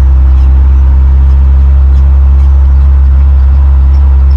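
Steady low drone of a truck's engine and road noise heard from inside the cab while driving, holding an even pitch and level.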